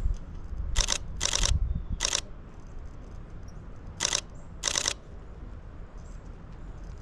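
Nikon D500 DSLR shutter firing in five short continuous-shooting bursts of rapid clicks, spread over the first five seconds.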